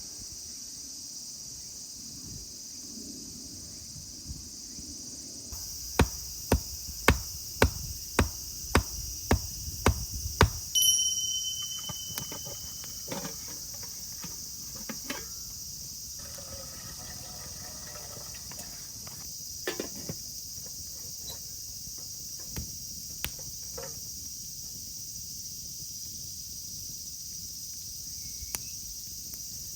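Insects chirring steadily and high-pitched, with a run of about nine sharp knocks, roughly two a second, from about six to ten seconds in, then a few scattered lighter clicks and knocks.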